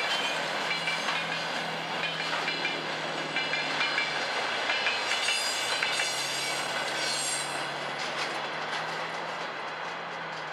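Freight wagons of a long freight train rolling past on the track, their wheels clacking rhythmically over rail joints, with high squealing from the wheels about halfway through. The clatter eases and fades a little near the end as the last cars go by.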